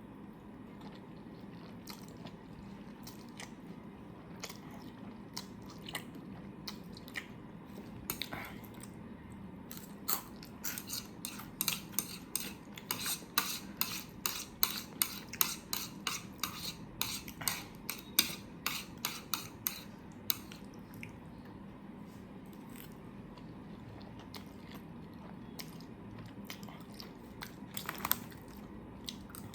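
Close-miked eating sounds: chewing, with a quick run of sharp clicks and clinks of utensils against a dish through the middle stretch and a few more near the end.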